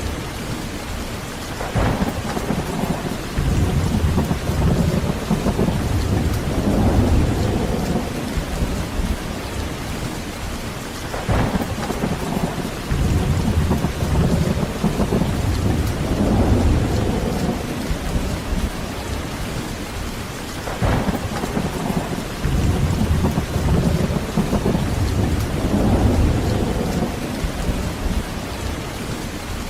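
Heavy rain falling steadily through a thunderstorm, with rolling thunder. Three peals each open with a sharp crack and rumble on for several seconds, coming about every nine or ten seconds.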